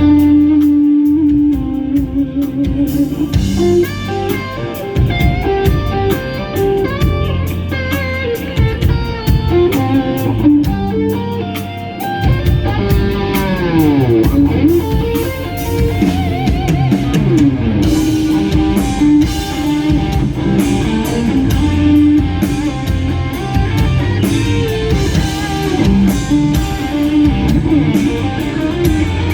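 Live rock band playing an instrumental ballad: a lead electric guitar carries the melody over bass and drum kit, with the drums picking up a few seconds in and the guitar sweeping down in pitch about halfway through.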